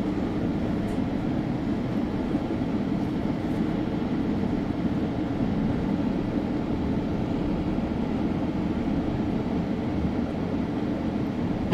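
Steady low rumble of a moving GO Train passenger coach, heard from inside the car.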